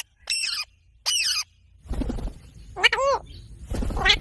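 Indian ringneck parakeet calling: two short, shrill calls in the first second and a half, then two lower, voice-like calls with a bending pitch, one about three seconds in and one near the end. A low rumble runs under the later calls.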